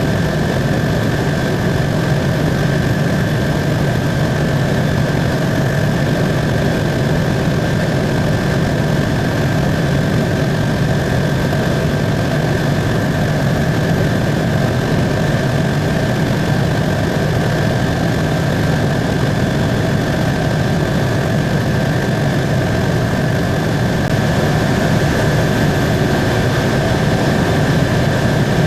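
Helicopter in steady cruise flight, heard from inside the cabin: a constant engine and rotor drone with a steady high whine over it.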